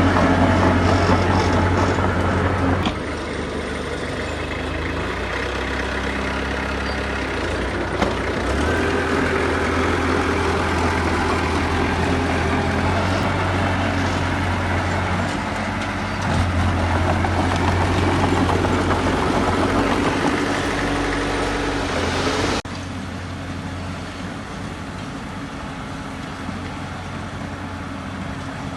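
Heavy diesel earthmoving machinery running steadily, with abrupt changes in the engine sound about three seconds in and again a few seconds before the end.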